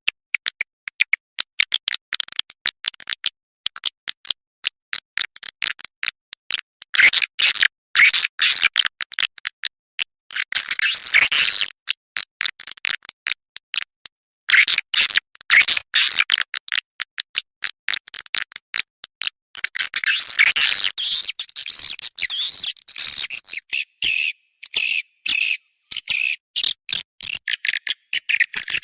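Swiftlet call lure recording: fast trains of sharp clicks and high chirping twitters, in dense bursts with short gaps between them.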